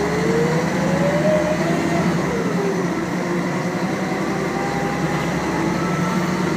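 Scania L113CRB bus accelerating, its diesel engine and ZF automatic gearbox pulling with a whine that rises in pitch, drops at a gear change about two seconds in, then climbs again.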